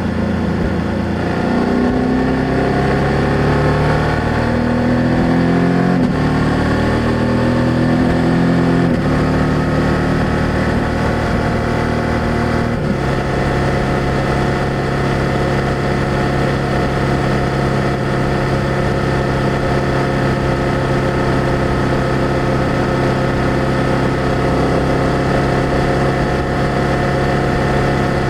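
BMW F800GS parallel-twin motorcycle engine and exhaust under way: it pulls up through the gears with rising pitch, dropping at each of two shifts, then holds a steady cruising note that settles a little lower about halfway through.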